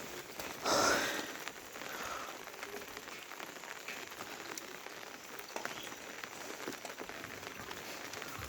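Monsoon rain falling steadily, a hiss of noise dotted with many small drop ticks on surfaces. A short louder burst of noise comes about a second in.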